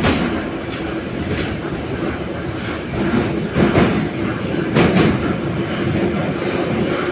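81-717.5 metro car running at speed, heard from inside the car: a steady rumble of wheels and running gear, with sharp wheel clacks over rail joints every second or two.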